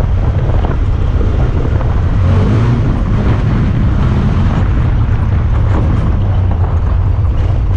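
Honda Talon 1000R side-by-side driving off-road, its engine running as a steady low drone under a continuous wash of vehicle and terrain noise.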